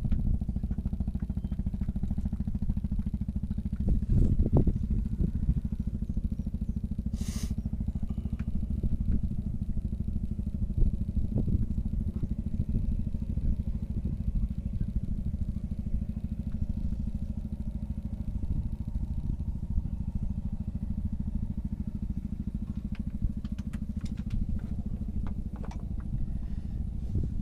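A small engine running steadily with a low, even rumble. A short hiss comes about seven seconds in, and a few light clicks come near the end.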